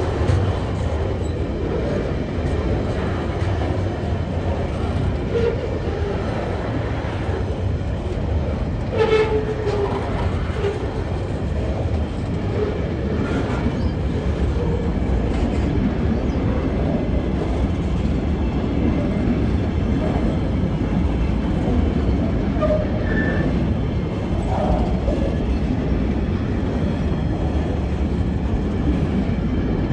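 Freight train of container flat wagons and empty coal hopper wagons rolling slowly past at about 15 km/h on newly rerailed track: a steady rumble of wheels on rail with occasional clanks.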